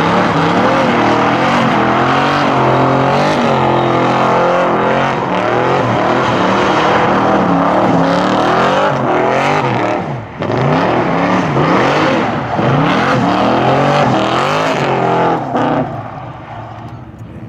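V8 muscle car engine under hard throttle, its pitch climbing steadily and then rising and falling again and again, before dropping away about sixteen seconds in.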